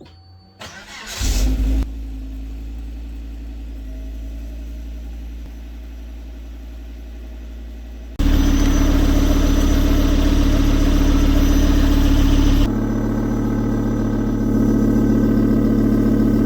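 Volvo V70's B5244S2 five-cylinder petrol engine cranked and started about a second in, then idling, heard to judge a quick repair of its leaking exhaust. The engine sound steps abruptly louder about eight seconds in and changes tone again about thirteen seconds in.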